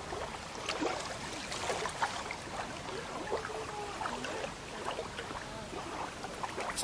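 Water trickling and lapping, with many small, irregular splashes.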